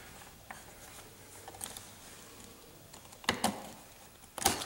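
Small plastic and metal clicks of a hobby RC buggy's rear suspension being handled: a faint click about half a second in, then two sharper clicks a little past three seconds and near the end, as a dog bone is worked off its ball joint.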